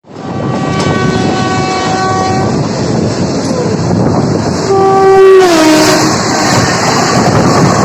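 Indian Railways locomotive horn sounding twice over the steady rumble and wheel clatter of a moving train. The second blast slides down in pitch as it ends.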